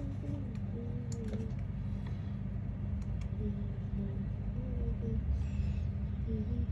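A faint single-line tune wandering up and down in pitch over a steady low rumble, with a few light clicks about one and three seconds in.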